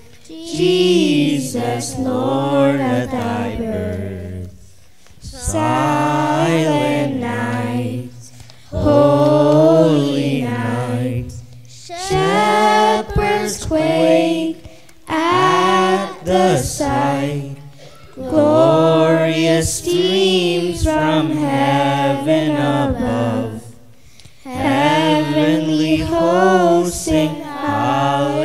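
A children's choir singing a carol unaccompanied, in phrases of a few seconds with short breathing pauses between them.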